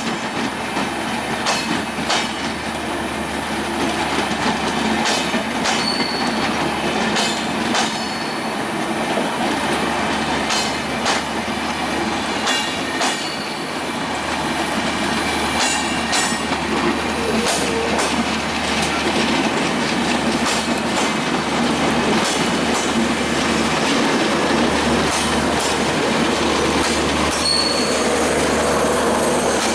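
Diesel-hauled broad-gauge express passenger train running on the track: steady rolling rumble with repeated wheel clicks over rail joints and a few brief high wheel squeals.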